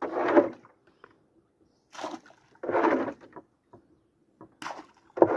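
Water splashing and sloshing in four or five short bursts, about a second apart.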